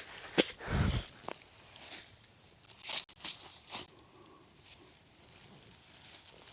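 Scattered light rustles and a few soft knocks and clicks, with a low thump about a second in.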